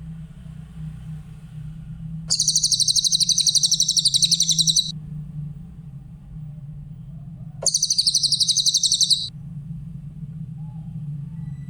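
Cililin bird singing two long, high, rapid trills, the first starting about two seconds in and lasting about two and a half seconds, the second starting past halfway and lasting about a second and a half, over a steady low hum.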